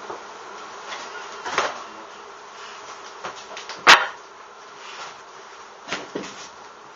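Honeybees buzzing steadily as their colony in a shed wall is disturbed. Several short knocks break through, the loudest a sharp crack about four seconds in.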